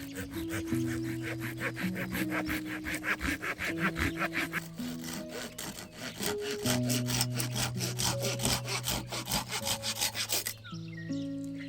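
Hand saw cutting through wood in fast, even back-and-forth strokes that stop about a second before the end.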